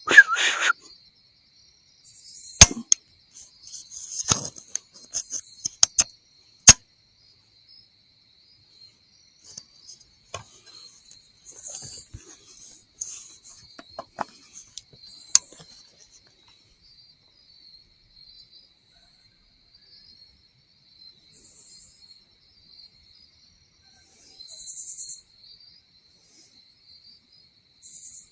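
An AR-style .308 rifle misfiring and being worked: a sharp click at the start, then a cluster of loud metallic clicks and rattles over the next several seconds as the action is handled, followed by scattered fainter clicks and rustling.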